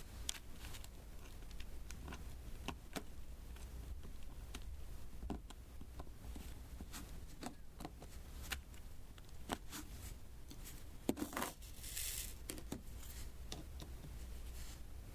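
Diamond painting: small resin drills tapped one by one with a drill pen onto the sticky adhesive canvas, making irregular light clicks. About eleven seconds in, a short scratchy rustle.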